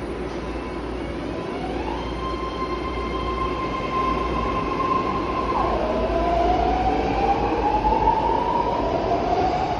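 BART Legacy Fleet six-car train pulling out and accelerating, its propulsion whining in tones that rise, drop suddenly about halfway through and climb again, over a rumble that slowly grows louder.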